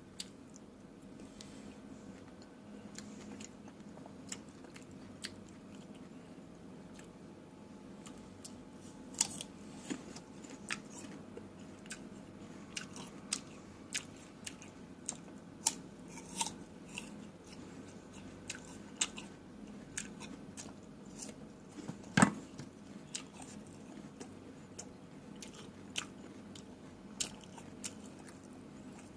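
Close-up chewing and biting of fresh fruit: a run of short, crisp crunches at an uneven pace, with one much louder crunch about three quarters of the way through.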